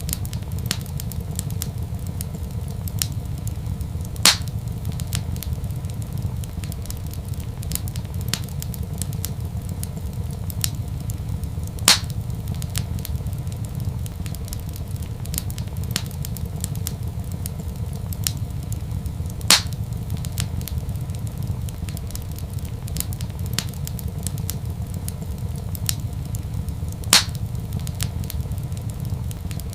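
Wood fire crackling, with frequent small ticks and four louder sharp pops, one about every seven and a half seconds, over a steady low rumble.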